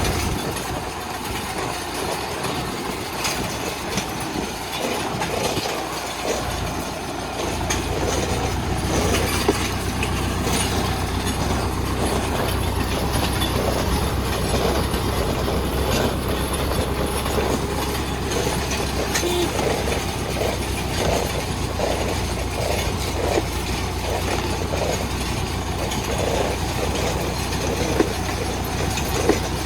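Tractor engine running steadily while pulling a homemade drip-tape laying machine, with a repeating metallic rattle from the implement. The engine hum grows stronger about seven seconds in.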